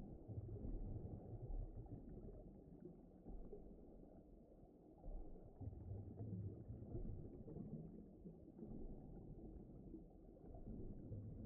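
Faint, low, muffled rumble of deep-ocean underwater ambience, swelling and easing every few seconds.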